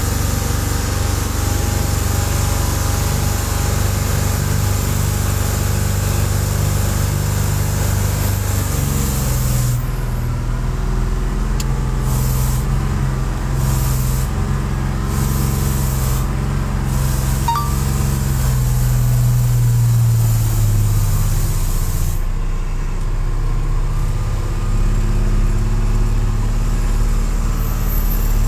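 Truck engine running under way, with steady road noise; the engine note climbs slowly for about ten seconds and then drops.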